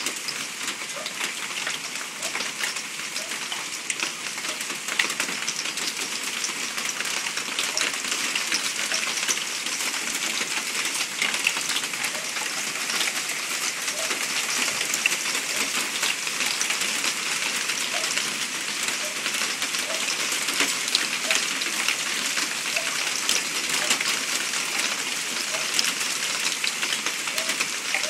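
Hailstorm: hailstones and heavy rain pelting down, a dense, steady clatter of many sharp individual strikes over a continuous hiss.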